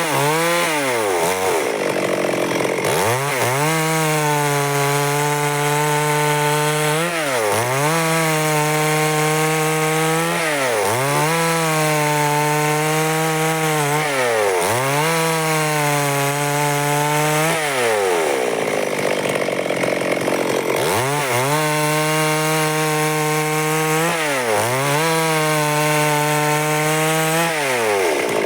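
Stihl two-stroke chainsaw running at high revs while cutting wood. Its pitch dips briefly and recovers about every three to four seconds.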